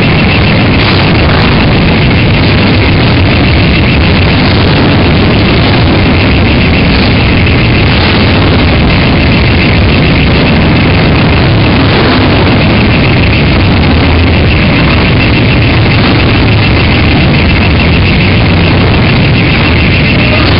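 Many motorcycle engines running together as a procession of bikes rides past, a loud, continuous din that never lets up.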